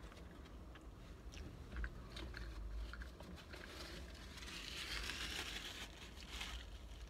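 Someone chewing a brisket sandwich with the mouth closed, with small wet mouth clicks. From about four seconds in there is a soft rustle of a paper napkin being wiped across the mouth.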